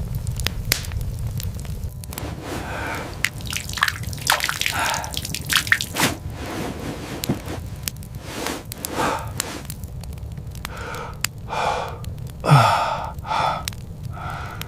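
Wet squishing and dripping sounds with scattered sharp clicks over a steady low rumble, and a few breathy, gasp-like vocal sounds, the loudest about twelve and a half seconds in with a falling pitch.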